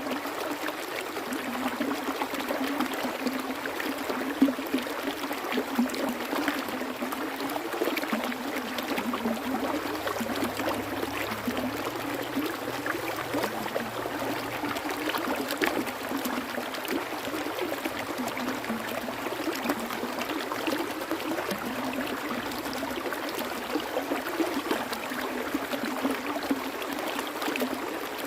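Stream water flowing steadily, a continuous rush with fine splashing and trickling.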